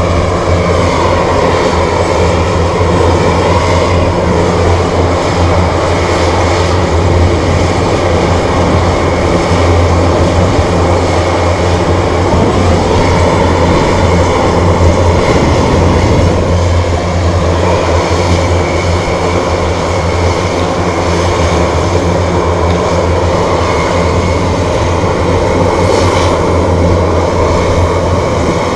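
Military aircraft engines running steadily on the ground, a loud continuous sound with a strong low hum.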